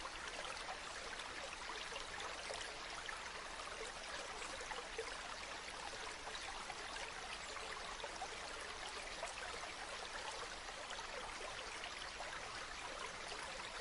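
Waterfall: a steady rush of falling and splashing water, with small splashes flickering through it.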